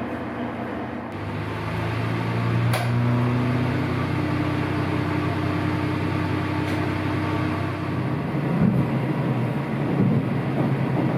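Vehicle engine running steadily, heard from inside the vehicle, its low hum growing louder about a second in and holding.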